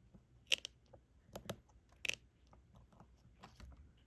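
A few crisp, irregular plastic clicks from diamond painting work: a drill pen picking up and pressing small resin drills onto the adhesive canvas.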